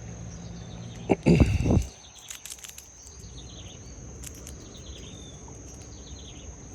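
Steady high insect drone, with a short loud low noise about a second in and a few sharp clicks after it.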